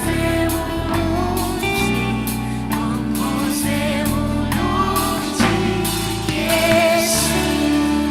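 Gospel worship band playing live, with singers holding wavering sung notes over steady bass notes.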